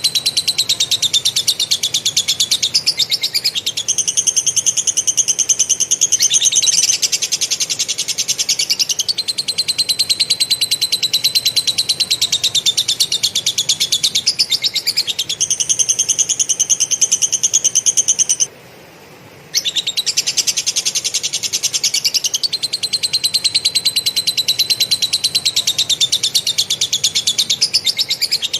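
Cucak jenggot (grey-cheeked bulbul) singing a continuous stream of harsh, very rapid stuttering notes, lovebird-style 'rough, tight shots' (tembakan kasar rapat), in alternating high and lower phrases. The song cuts off abruptly for about a second about two-thirds of the way through, then resumes.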